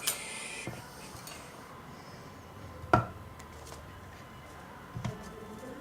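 Small metal hand tools clicking lightly on a workbench during microsoldering: a brief hiss at the start, then two sharp clicks about three and five seconds in.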